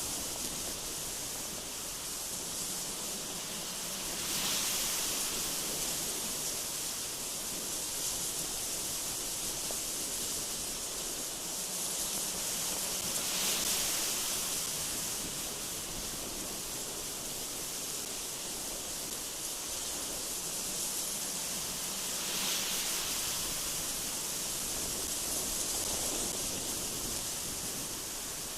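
Strong, gusty mountain wind blowing through trees with a steady hiss, swelling into louder gusts four times.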